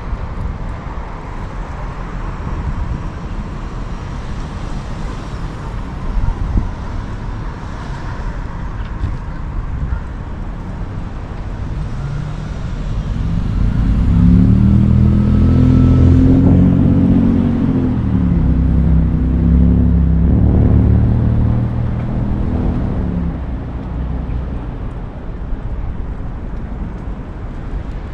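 A motor vehicle passing close by, its engine note rising and then falling in pitch over about ten seconds near the middle, over a steady low rumble of road and wind noise from riding.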